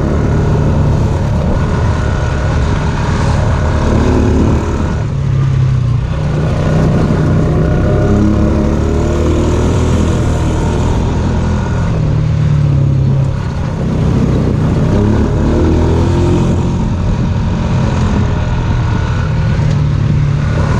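Engine of a small Honda off-road bike running under way, its pitch rising and falling repeatedly as the throttle opens and eases.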